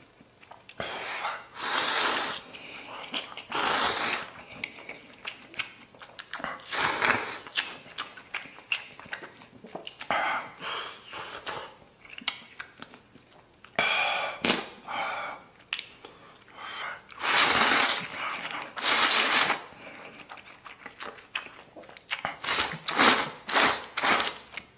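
A person eating instant noodles close to the microphone: repeated slurps of about a second each, with chewing and wet mouth clicks between them, a quick run of clicks near the end.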